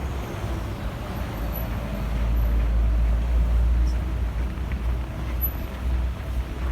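Traffic passing on a snowy city street, with wind buffeting the microphone. A low rumble swells about two seconds in and eases by about four seconds.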